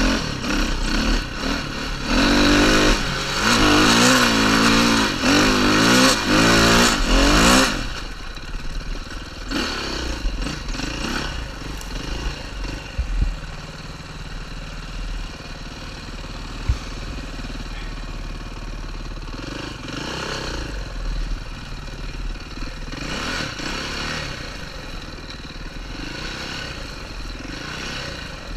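KTM 530 single-cylinder four-stroke enduro motorcycle engine, revved hard with repeated rises and falls in pitch through the first eight seconds, then running more quietly at lighter throttle with a few short revs.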